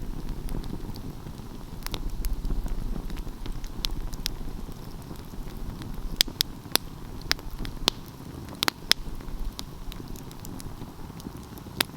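Wood fire burning with a low steady rumble of flames and scattered sharp pops and crackles, most of them in the second half.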